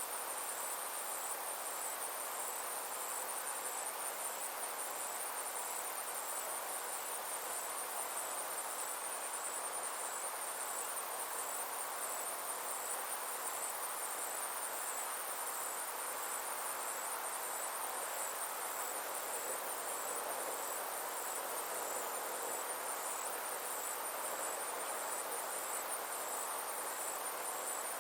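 Summer insects chirring in a steady, high-pitched drone with a fast, even pulse, over a soft, even hiss of outdoor ambience.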